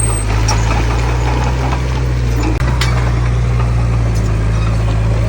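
Heavy diesel engine of earthmoving machinery running steadily, a constant low drone, with a single short knock about halfway through.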